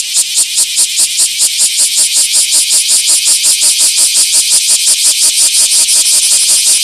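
Bear cicada (Cryptotympana facialis) singing loudly, a steady, rapid buzzing pulse of about seven beats a second.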